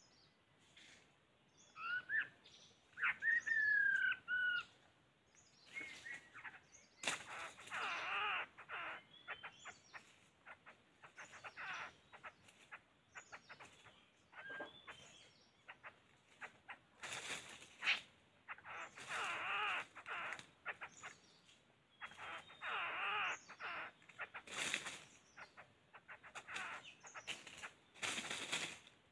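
Forest birds calling: a few whistled, sliding notes early on, then repeated harsh, rasping bursts each lasting a second or two.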